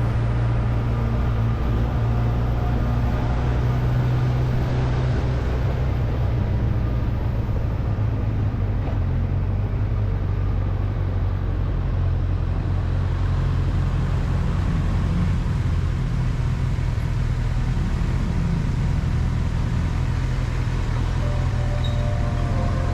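Motorcycle engine running steadily while riding, under road and wind noise.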